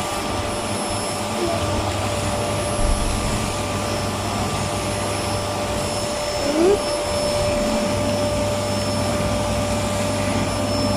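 Electric vacuum cleaner running steadily, a constant rushing noise with a high whine. A short rising squeak cuts in about six and a half seconds in.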